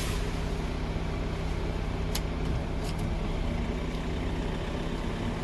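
A steady low engine hum, with two faint clicks about two and three seconds in.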